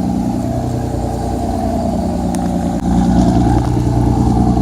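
Boat engine running with a steady low drone, getting louder a little under three seconds in.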